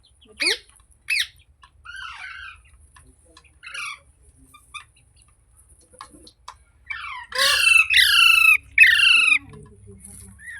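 Pet green parrot squawking: two short sharp calls near the start and some softer chatter, then three loud harsh screeches in quick succession about seven seconds in.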